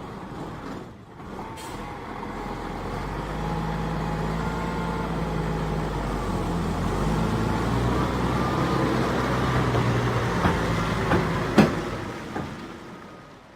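Semi-trailer truck's diesel engine running, building up over the first few seconds, with its engine note stepping down in pitch about halfway through. A sharp click comes near the end before the sound fades out.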